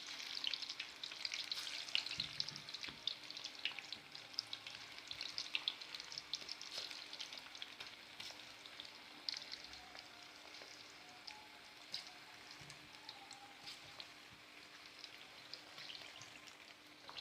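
Besan-coated marinated chicken pieces frying in very hot oil: a dense sizzle with fine crackles and pops, busiest for the first several seconds and then settling to a thinner crackle as the pieces fry.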